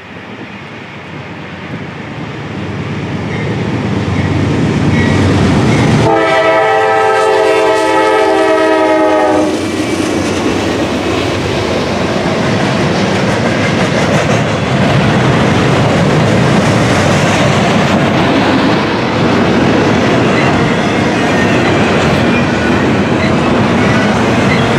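Norfolk Southern GE Dash 9-44CW diesel locomotive approaching and growing louder, sounding one long chord on its horn for about three and a half seconds as it comes by. Then the double-stacked container cars roll past in a steady rumble of wheels on rail with clickety-clack.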